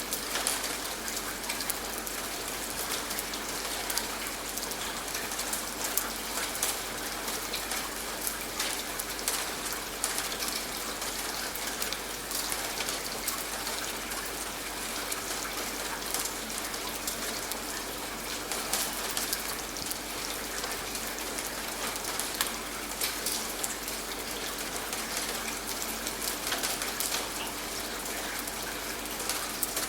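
Steady rain falling, with many individual raindrops striking a surface close by.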